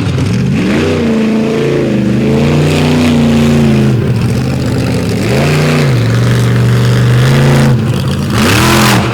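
Monster truck engine revving hard and backing off several times, its pitch climbing and dropping, with a loud rush of noise near the end.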